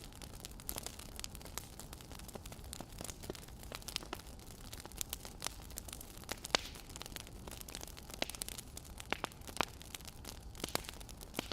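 Wood fire crackling: irregular sharp pops and snaps of burning logs over a steady low hiss.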